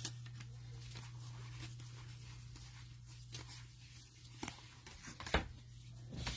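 Faint rustling and a few soft clicks of trading cards being handled and flipped, over a steady low electrical hum.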